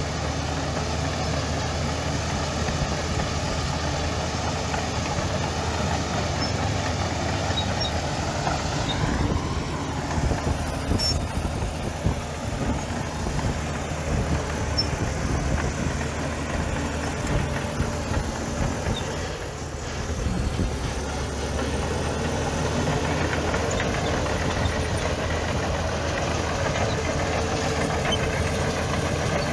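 Heavy diesel engine of earthmoving machinery running steadily, with a brief dip about two-thirds of the way through.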